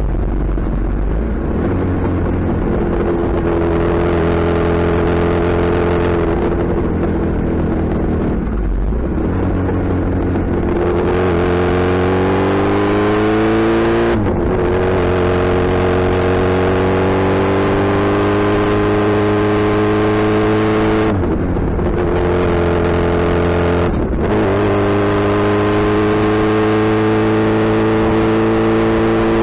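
Suzuki Hayabusa's inline-four engine pulling through an extreme exhaust in city riding. Its note climbs slowly in pitch and breaks briefly several times at gear changes.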